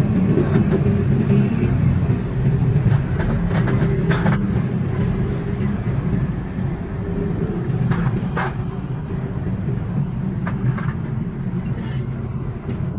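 Steady low mechanical rumble, with a few sharp clicks or knocks over it.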